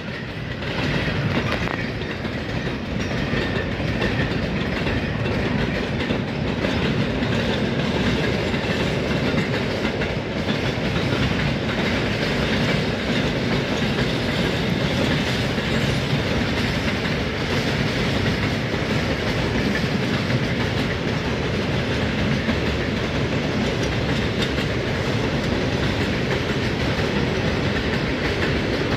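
Freight train of loaded flatcars rolling past at a steady speed: a continuous rumble of steel wheels on rail with a fast clatter of clicks over it.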